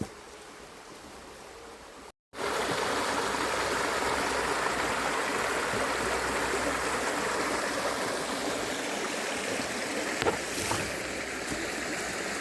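A small river flowing: steady rushing water. It is fainter for the first two seconds, then breaks off abruptly and comes back much louder.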